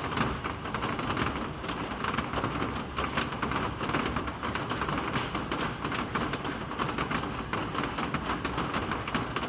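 Steady rain falling, with many individual drops ticking against surfaces.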